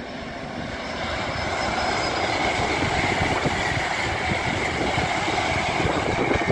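LNER Azuma (Hitachi) passenger train passing at speed: a rushing wheel-on-rail noise that builds over the first two seconds and then holds steady, with a high whine running through it.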